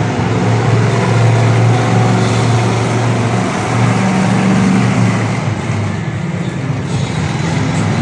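Monster truck engine running loud and revving: it climbs in pitch about four seconds in, then eases off.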